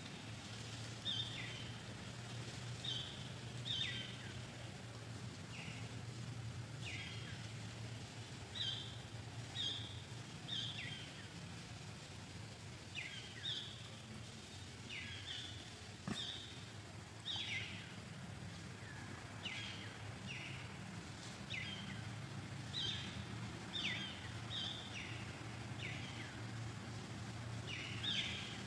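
A bird chirping again and again, short notes that slide downward, one every second or two, over a steady low hum.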